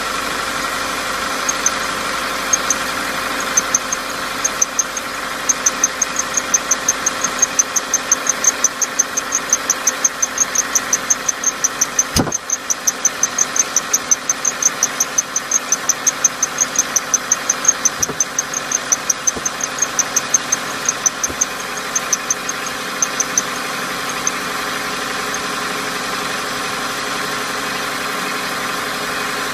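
Subaru Levorg 1.6's turbocharged flat-four idling just after a start, with a rapid, regular high-pitched chirping tick over the engine. The tick comes and goes at first, runs steadily, then dies away about 24 seconds in, and there is a single sharp knock about halfway through. This is the abnormal noise the car has sometimes made right after engine start since it was new.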